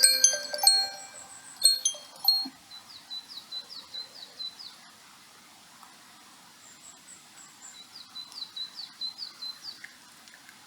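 A small songbird singing: quick runs of high, down-slurred chirps, repeated with short pauses and joined by a brief run of higher notes. In the first two seconds a few louder, ringing chime-like strikes sound.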